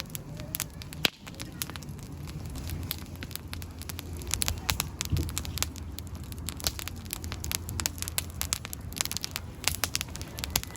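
Wood fire crackling, with many irregular sharp pops over a low rumble.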